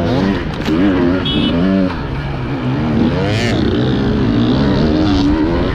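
Enduro motorcycle engine, heard close up from the rider's own bike, revving up and dropping back again and again as the throttle is worked over rough ground.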